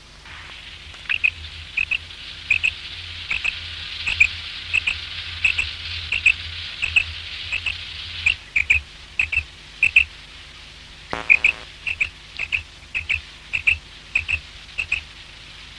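Common quail calling over and over, short high notes in quick groups of two or three. A hiss runs under the first half, and a brief buzz comes about eleven seconds in.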